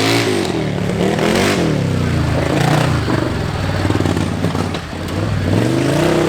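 Modified lawn tractor (mud mower) engine revving hard and easing off several times, its pitch climbing and dropping in waves, with some clatter over the top.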